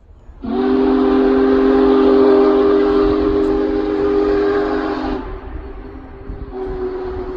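Locomotive air horn sounding a chord in one long blast of about five seconds, then a shorter blast near the end, over the low rumble of a train.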